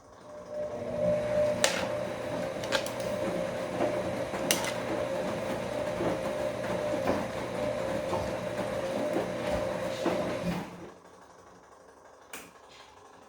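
Bosch Komfort-Klasse front-loading washing machine turning its drum in a wash cycle: the motor starts about half a second in and runs with a steady whine while the wet laundry tumbles with scattered clicks. The drum stops suddenly near the end, the usual pause before it turns again, and one more click follows.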